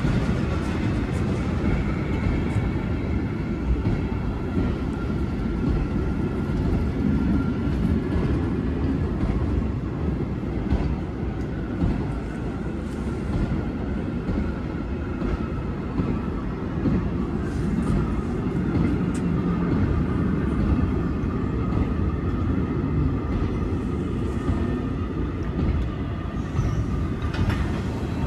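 Goods wagons of a heritage steam train rolling past over a level crossing: a steady rumble of wheels on the rails with irregular clatter over the joints.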